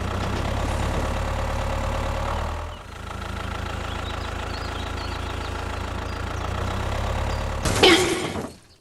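An engine idling steadily with a low hum, dipping briefly about three seconds in, then a short sharp burst near the end before the sound cuts off suddenly.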